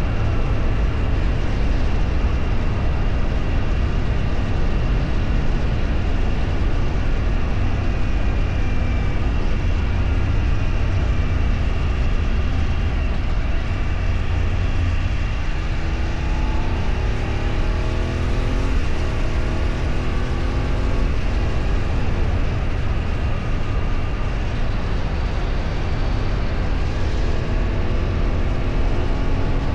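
Motor vehicle on the move: a steady low engine and road rumble, with the engine pitch climbing in several steps through about the middle and again near the end as it accelerates through the gears.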